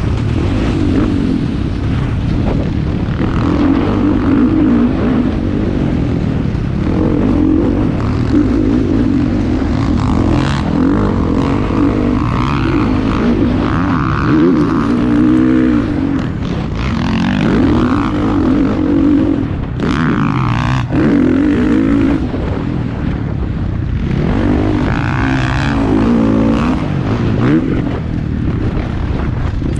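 Motocross bikes racing, their engines revving up and dropping back again and again as riders accelerate, shift and brake around the track.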